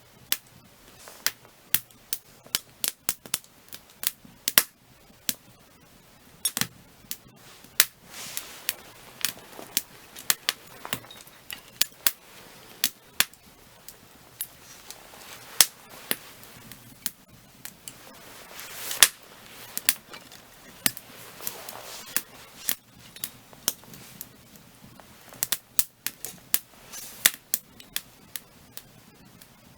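Firewood burning, crackling with irregular sharp pops and snaps, a few of them much louder, and a few brief soft hissing swells.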